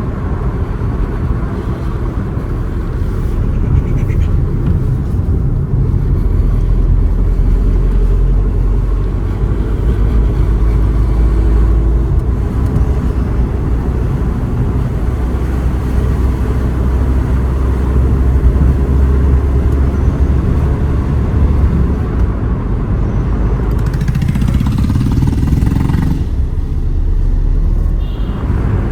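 A road vehicle driving, with a steady low engine and road rumble. A brief rising sound comes in about 24 seconds in.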